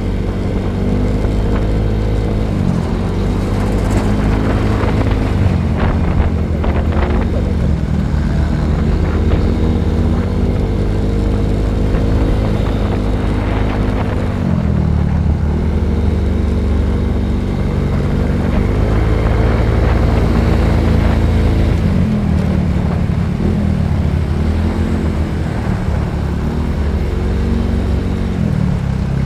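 Motorcycle engine running while riding. Its pitch climbs and then drops several times as the throttle opens and closes through gear changes, over a heavy low rumble of wind on the microphone.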